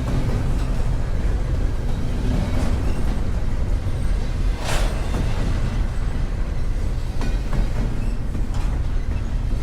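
Freight train rolling by, a steady low rumble of wheels on rail with scattered clicks. A short hissing burst comes about halfway through.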